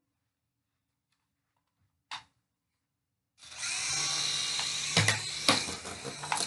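RC helicopter's motor and rotor starting up about half way in and running with a steady whine, with a few sharp knocks near the end. There is a brief click before it starts.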